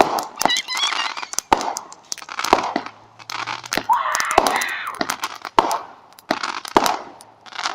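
Consumer fireworks going off: a rapid, irregular series of sharp cracks with crackling between them.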